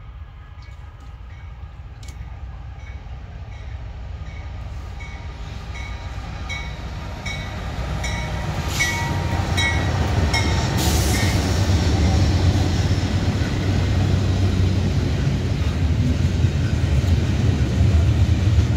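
Norfolk Southern intermodal freight train approaching and passing: the diesel locomotives grow steadily louder and go by about halfway through. A steady deep rumble of double-stack container cars rolling past follows.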